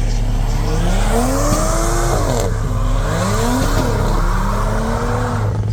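Car engine revving up and down several times, its pitch rising and falling, with a hiss of tyre noise over it, typical of a burnout at a car meet.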